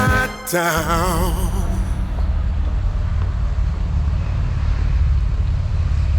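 Background music fades out about two seconds in, leaving a steady low rumble.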